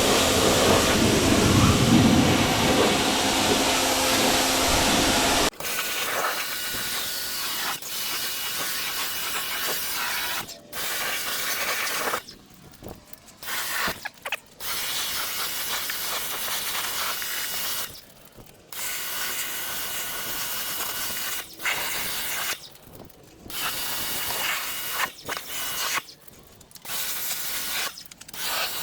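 Small electric pressure washer spraying water in a steady hiss, with a louder motor hum for the first five seconds or so. Afterwards the spray stops and restarts several times as the trigger is released and squeezed.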